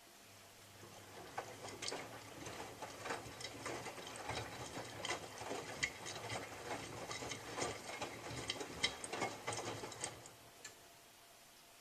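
Miele W3744 washing machine drum turning for about ten seconds. The motor hums low and steady while the tumbling load makes many irregular clicks and knocks, then the drum stops and pauses, as in the gentle Minimum Iron wash action.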